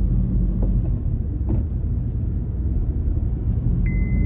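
Car cabin road noise: a steady low rumble while driving. Near the end a high electronic beep begins, repeating about once a second.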